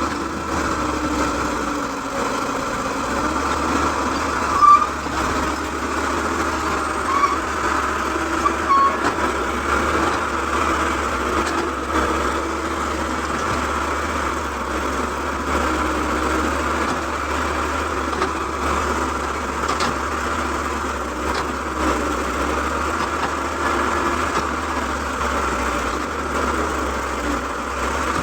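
Excavator engine running steadily, with a few short sharp sounds about five seconds in and again a little later.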